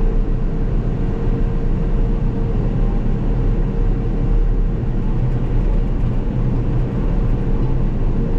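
Caterpillar D6K2 XL bulldozer running steadily as it tracks along: a continuous low diesel rumble with a steady hum over it.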